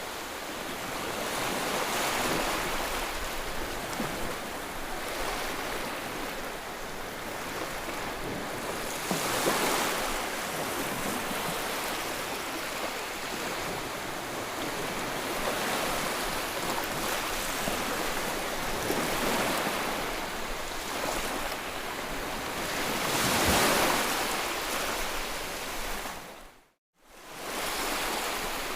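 White noise for soothing a colicky baby: a steady hiss that swells and fades every six or seven seconds like surf. It cuts out for a moment near the end, then comes straight back.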